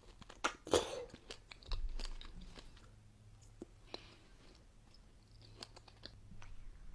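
Close-miked chewing of soft fruit, likely kiwi: wet smacks and crunchy clicks, loudest just under a second in, then quieter chewing.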